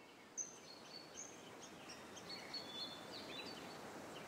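Many birds chirping and whistling faintly, short overlapping notes over a steady background hiss, with one louder chirp about half a second in.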